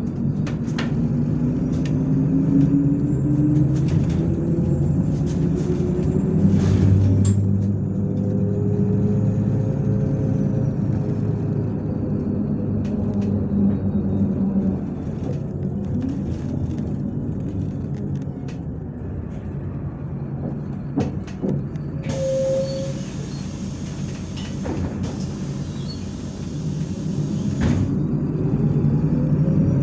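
MAZ-103 city bus running, heard from inside the passenger cabin: steady engine hum with a drivetrain whine rising as it accelerates in the first few seconds, plus cabin rattles and clicks. A high hiss joins for several seconds past the middle.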